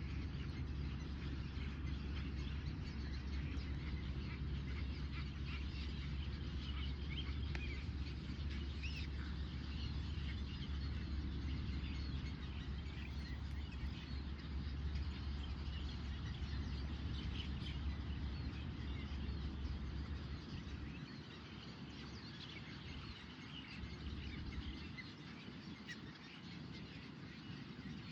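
Many small birds chirping and calling over a steady low rumble; the rumble drops away about three-quarters of the way through, leaving the birdsong clearer.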